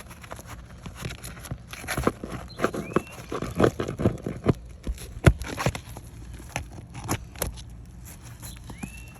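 Pry bar working under asphalt roof shingles, breaking the seals and pulling roofing nails: a run of irregular scrapes, clicks and knocks, busiest between about two and six seconds in, with two short rising squeaks.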